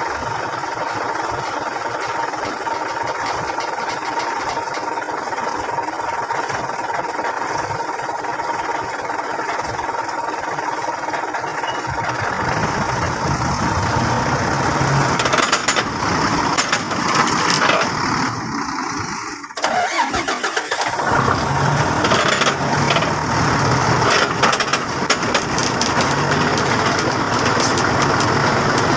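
Logging truck engine running, fuller and louder from about twelve seconds in, with a brief dip a few seconds later.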